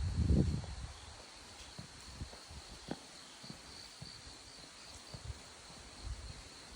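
Crickets chirring in a steady high trill, with a walker's footsteps thudding on the forest path about once or twice a second. A louder low rumble comes in the first second.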